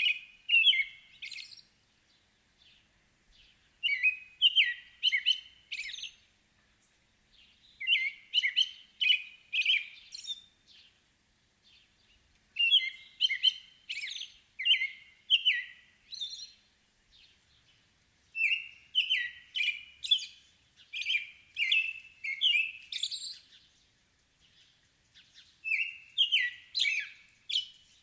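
A songbird singing phrases of quick high chirps, a new phrase every few seconds with short pauses between.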